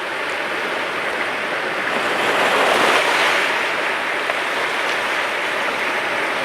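Sea waves washing onto the shore: a steady rush of surf that swells about halfway through as a wave breaks, then eases back.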